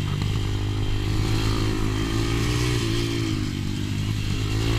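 125cc pit bike engine running hard on the track, its pitch dipping a little about three seconds in and climbing again as the throttle comes off and back on.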